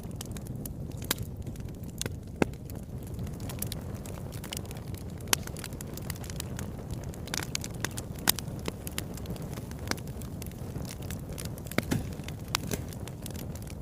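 Wood fire burning in a fireplace, with a steady low rumble and irregular sharp crackles and pops, a few of them louder.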